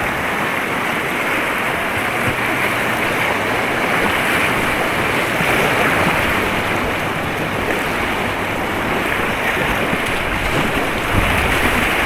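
Steady rush of white water on an artificial white-water course, loud and unbroken.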